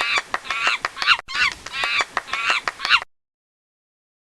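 Monkey chattering: a run of short, high-pitched calls, several a second, that stops abruptly about three seconds in.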